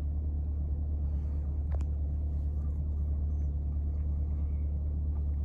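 Steady low rumble of a 2023 Corvette C8's 6.2-litre V8, heard inside the cabin.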